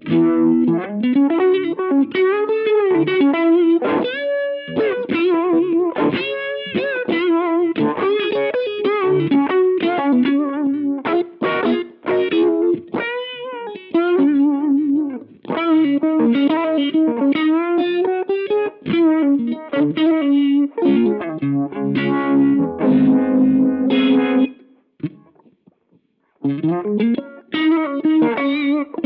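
Electric guitar played through a NuX Monterey Vibe, a digital Uni-Vibe-style modulation pedal. Melodic lead lines with bends and a wavering pitch give way to strummed chords, with a short pause about 25 seconds in before the playing resumes.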